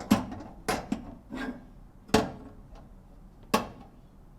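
Metal clanks and knocks as a rotisserie lifter clamp is worked against the spit inside a toaster oven, about five sharp strikes spaced irregularly.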